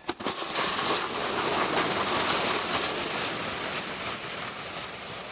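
Plastic toboggan sliding down a snowy slope: a steady scraping hiss of the sled over the snow that starts suddenly as it pushes off and slowly fades toward the end.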